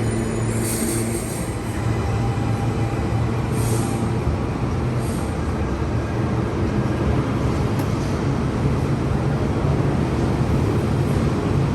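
A train running by with a steady low rumble, with short hissing bursts about half a second in and again about four and five seconds in.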